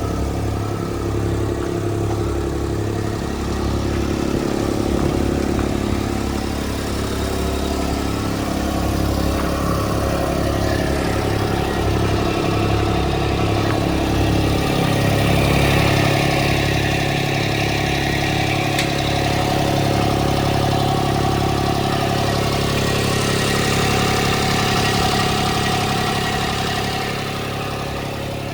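Diesel engine of a Toro 22328 compact track loader running steadily. From about the middle it works harder and runs louder, then settles a little lower near the end.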